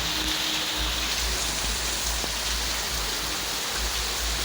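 Heavy rain falling in a steady hiss, with an uneven low rumble underneath.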